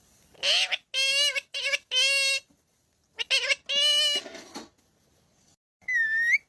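Pet parrot vocalising: about six short, high, nasal calls or speech-like imitations in quick succession, then a single whistle near the end that dips and rises.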